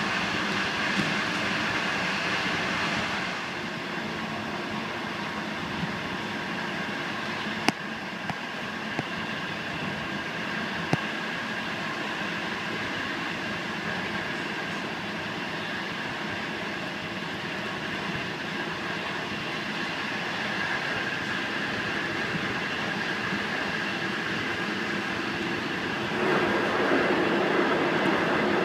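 China Railways express passenger train running at speed, heard from inside a soft sleeper compartment as a steady running noise with a few sharp clicks about eight to eleven seconds in. The noise grows louder near the end.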